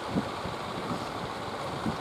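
Wind buffeting the microphone in irregular low thumps over a steady rush of waves.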